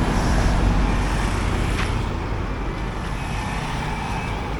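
Road traffic passing by, a steady rumble of vehicles on a busy street.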